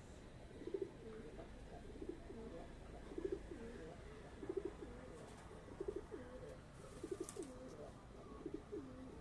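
A pigeon or dove cooing faintly and steadily, a low throaty call repeated about every second and a half.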